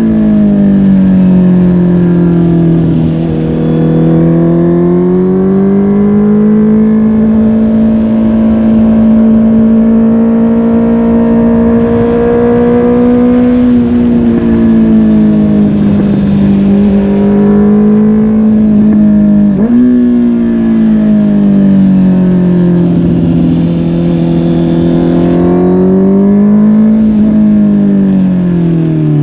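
Honda CB650R inline-four engine through a MIVV GP PRO Carbon aftermarket exhaust, heard from the rider's seat while riding. The engine note rises and falls with the throttle, holding steady for stretches, with a brief sharp dip and recovery about two-thirds of the way through.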